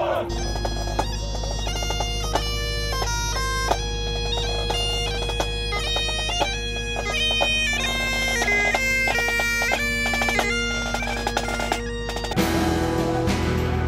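Bagpipes playing a tune over steady drones. The piping stops suddenly about twelve seconds in, and a louder, noisier sound takes over.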